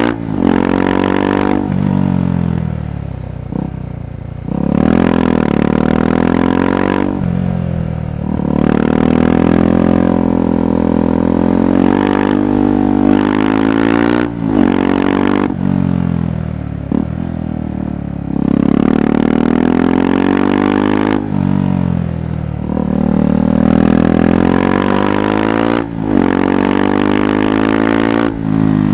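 KTM 390 Adventure's single-cylinder engine heard through its exhaust, the rider accelerating and easing off again and again: the pitch climbs, breaks briefly at gear changes and falls away when the throttle closes, about half a dozen times.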